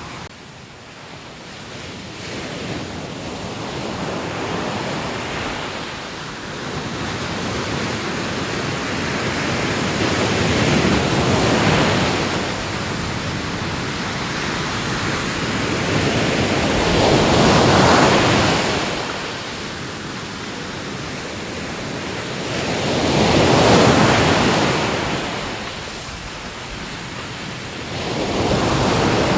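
Ocean surf: waves washing onto the shore with a continuous hiss, swelling and falling back about every six seconds.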